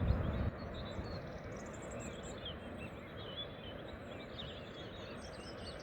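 Steady wash of sea surf with small birds chirping and twittering over it.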